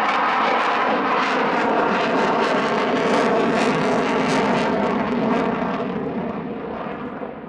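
Eurofighter Typhoon's twin EJ200 turbofans loud overhead as the jet passes the crowd, the noise fading over the last two seconds.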